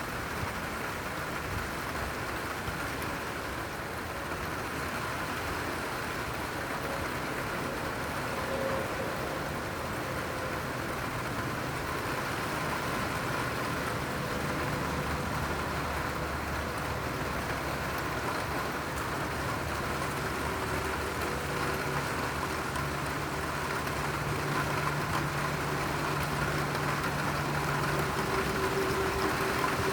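Heavy rain falling steadily. About two-thirds of the way in, a low steady hum joins it.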